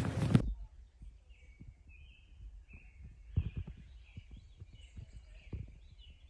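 Faint birds chirping, with small short calls scattered through, over soft low knocks. A louder noisy passage cuts off suddenly about half a second in.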